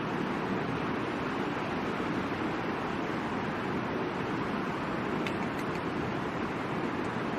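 Steady rushing of a river, with a couple of faint crackles from a campfire about five seconds in.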